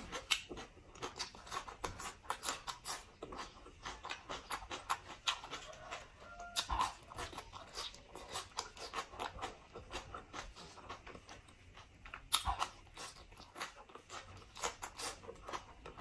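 Close-miked eating sounds: a person crunching and chewing a crisp raw green vegetable, with a rapid run of wet mouth clicks and smacks.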